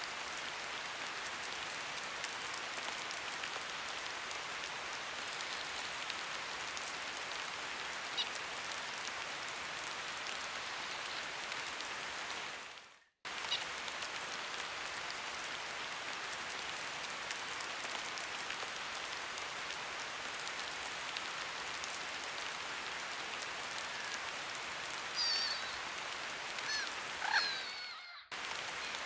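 Steady rain falling on a river surface, an even, dense hiss of drops. The sound cuts out briefly about 13 seconds in and again near the end, and a few short bird calls come through just before the end.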